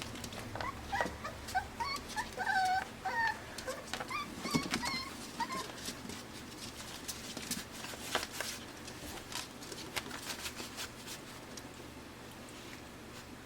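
Pembroke Welsh Corgi puppies, five weeks old, whimpering in a string of short high squeaks for the first five seconds or so, among scattered light clicks and taps that go on after the squeaks stop.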